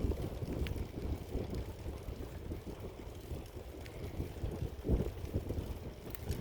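Wind buffeting the microphone during a ride: an uneven low rumble that swells in gusts, with a few faint clicks.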